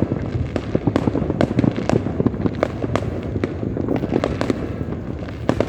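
Fireworks and firecrackers going off without a break: a dense, irregular crackle of sharp bangs and pops over a continuous low rumble of further explosions.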